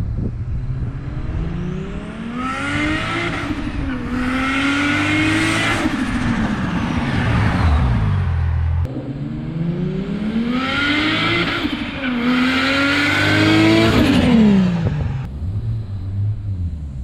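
Ford FPV F6 Typhoon's turbocharged Barra inline-six accelerating hard at full throttle. The revs climb, dip for a gear change and climb again, then the engine note falls away as the car pulls off. A second run climbs through another gear change and drops steeply as the car passes.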